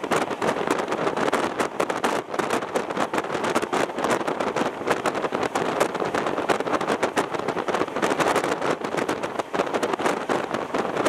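Running noise of a moving passenger train heard from on board: a steady rush of wheels on rails with dense, irregular rattling and clatter throughout.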